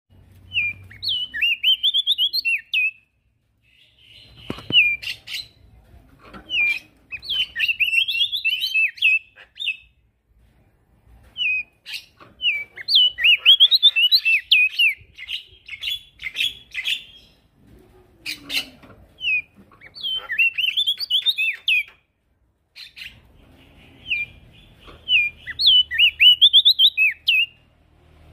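A male prenjak daun singing, repeating phrases of rapid, jumpy, high chattering notes, each phrase two to five seconds long with short pauses between.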